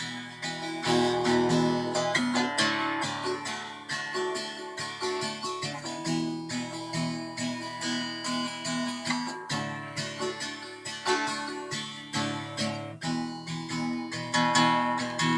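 Acoustic guitar played alone as an instrumental break in a folk song, a steady run of plucked and strummed notes.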